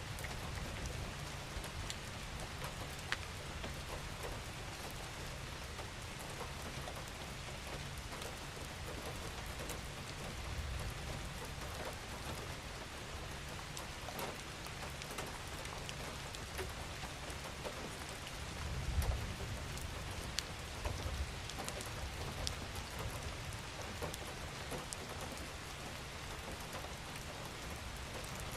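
Steady rain falling, a continuous hiss with scattered drops ticking, over a low rumble that swells briefly about two-thirds of the way through.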